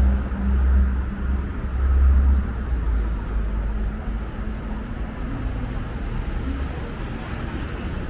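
Street traffic noise: a heavy low rumble from passing vehicles for the first couple of seconds, then easing into a steady traffic hum.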